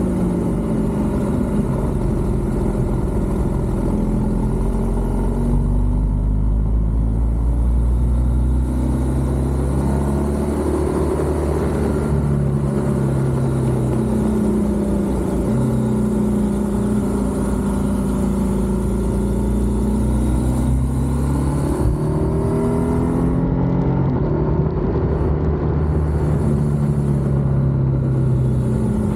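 BMW R1200GS boxer-twin engine under way through a run of bends. Its revs rise and fall several times, with steps in pitch, over a steady rush of wind and road noise.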